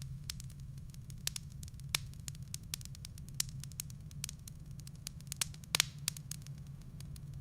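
Wood fire crackling, with irregular sharp pops and snaps, over a low steady rumble. It is loudest in a quick cluster of pops a little before six seconds in.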